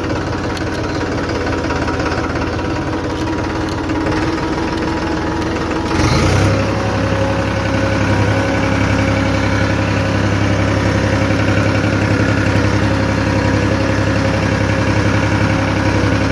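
Tractor engine running steadily; about six seconds in it speeds up and gets louder, then holds at the higher speed.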